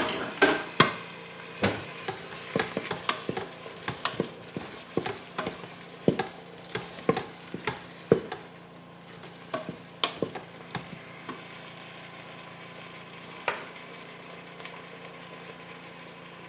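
A spoon stirring ground beef and vegetables in a pressure cooker pot, with irregular knocks and scrapes against the pot, busiest in the first ten seconds and then a single knock about 13 seconds in.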